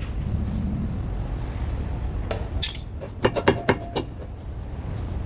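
Metal tools clinking and knocking during suspension work on a car, with a quick run of sharp metallic knocks about three seconds in, over a low steady rumble.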